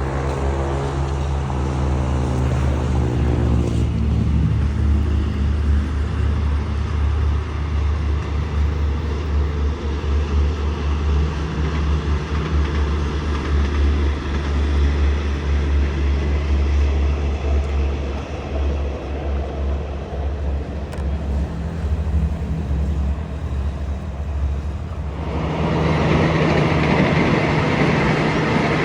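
Steady low engine rumble, with a pitched whine that falls away over the first few seconds as a vehicle passes. About 25 seconds in, a louder rolling noise of a train on the rails sets in.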